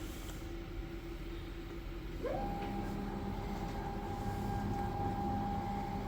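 Stepper motors of a 4x8 CNC router driving the gantry along its Y axis at 200 inches per minute. About two seconds in, the whine rises quickly in pitch as the axis speeds up, then holds one steady pitch.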